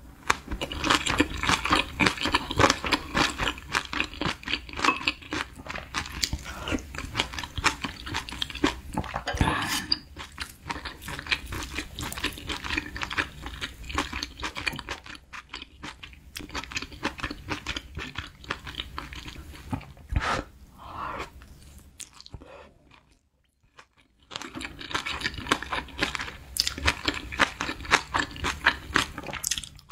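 A person chewing mouthfuls of kimchi and bean-sprout fried rice, with a steady wet crunching, stopping briefly about two-thirds of the way through before starting again.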